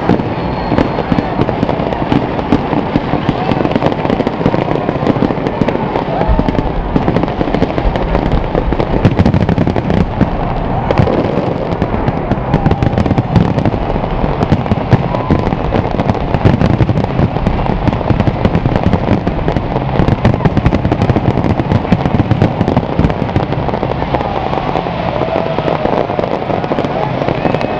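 Large fireworks display going off in a continuous, rapid barrage: dense overlapping bangs, bursts and crackling with no let-up.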